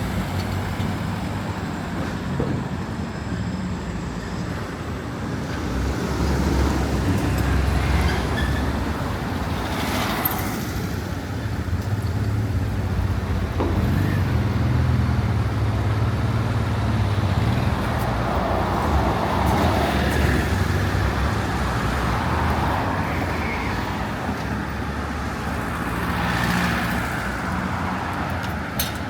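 City street traffic: cars and buses passing with low engine rumble that swells and fades as each goes by.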